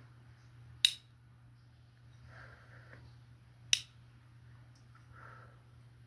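Two sharp snaps about three seconds apart, with soft swishing between them over a faint low hum.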